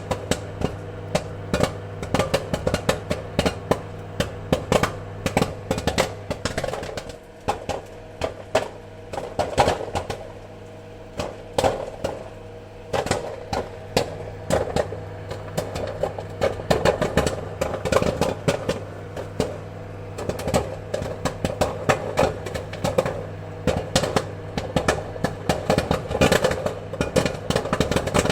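Popcorn kernels popping in quick, irregular pops over a steady low hum. The popping thins out for a few seconds about a quarter of the way in, then picks up again.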